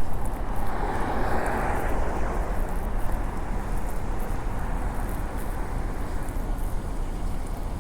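City traffic ambience: a steady low rumble with the noise of a passing vehicle swelling about a second in, then slowly fading.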